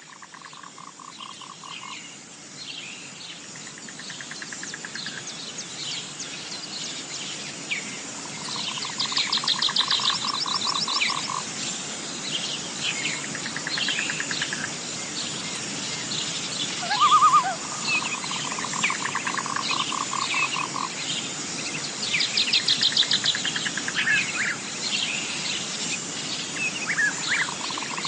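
Natural animal chorus that swells in over the first several seconds: many birds chirping and calling, a steady high insect buzz, and repeated pulsed trills, each a second or two long, typical of frogs calling.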